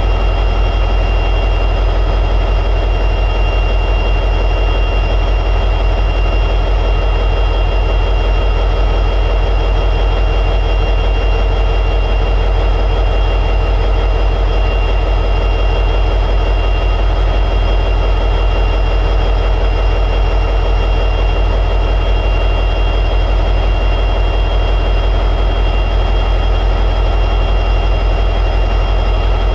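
EMD 710G3B two-stroke diesel prime mover of an SD60E locomotive running steadily at high idle, with a deep, even throb and a thin steady high whine on top.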